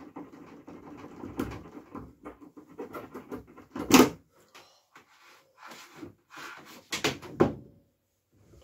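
Miele W433S washing machine running with a low hum and irregular knocks, which stops about two seconds in. After that come a few sharp knocks and clatters, the loudest about four seconds in and two more close together near the end.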